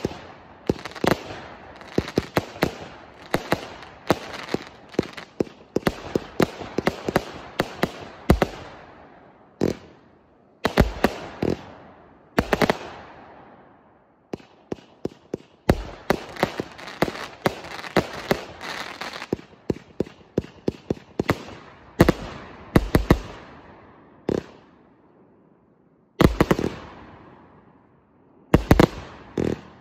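TKB130 'Firebird' fireworks battery firing: quick runs of sharp bangs and crackle, broken by single louder booms that ring out and fade, with a few short lulls between volleys.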